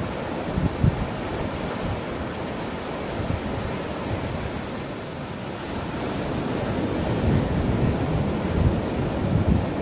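Sea surf washing onto a beach as a steady hiss, with wind buffeting the microphone in low, uneven rumbles that pick up during the last few seconds.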